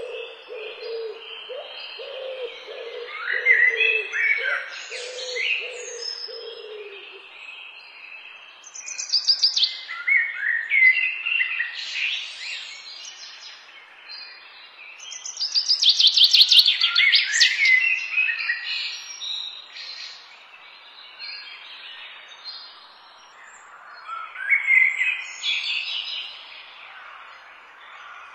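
Several birds singing and chirping, with rapid high trills coming in bursts every few seconds. A low, repeated call runs under them for the first seven seconds or so.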